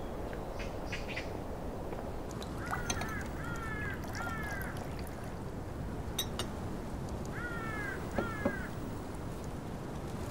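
Bird calls: five short downward-bending calls, three a few seconds in and two more near the end, over a steady background hiss, with a few sharp clicks.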